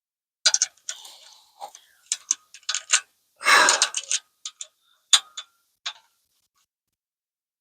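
Small metal clicks and taps of bolts, nuts and washers being handled and fitted through a truck bumper, irregular over the first six seconds, with one longer rough scraping-or-breathy sound of about a second near the middle.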